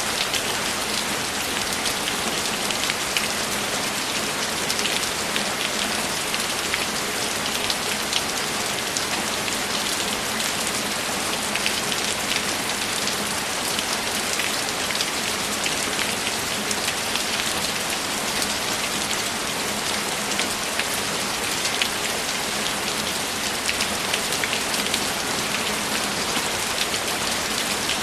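Steady heavy rainfall, a dense hiss of drops with many small drop ticks, even throughout without thunder.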